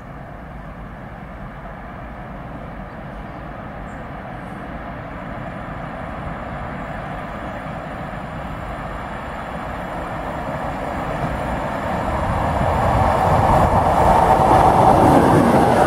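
Freight train hauled by an electric locomotive approaching at speed on the near track: a steady rumble and rail noise that grows louder throughout and is loudest near the end as the locomotive comes close.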